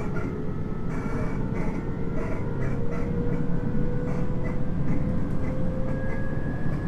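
Running sound inside a JR 719 series electric train: a steady rumble of wheels on rail with light knocks, and a thin motor and gear whine that rises slowly in pitch as the train gathers speed, then holds.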